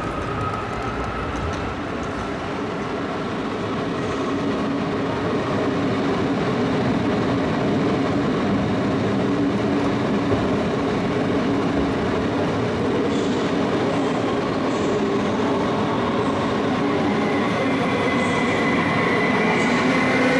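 A train running with a steady rumble and rattle of wheels on track, growing a little louder; near the end a higher whine rises as a train pulls in.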